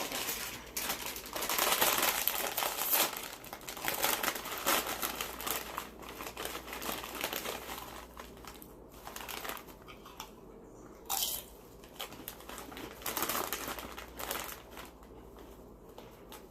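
Food wrapping crinkling and rustling in irregular bursts as it is handled, loudest in the first few seconds, with a short sharp tap about eleven seconds in.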